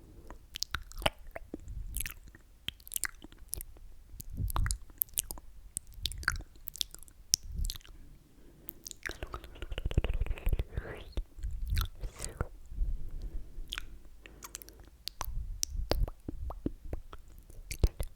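Close-miked ASMR mouth sounds: wet, sticky lip and tongue clicks and smacks in quick, irregular succession, with a longer hissing sound about halfway through.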